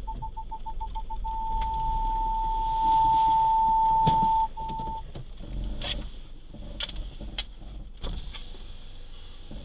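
Electronic warning beeper: rapid beeps run together into one continuous tone, which cuts off about halfway through. This is the pattern a car's parking sensor gives as an obstacle comes very close. A few sharp clicks or knocks follow.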